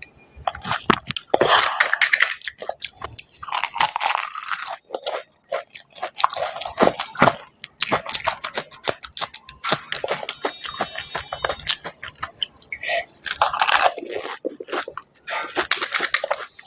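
Crisp, hollow panipuri shells being bitten and chewed close to the microphone: repeated crackly crunches mixed with wet chewing, in irregular bursts.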